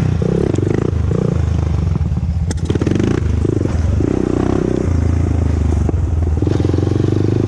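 Honda TRX400EX ATV's single-cylinder four-stroke engine running under way, the engine note rising and falling as the throttle is worked. A single sharp click sounds about two and a half seconds in.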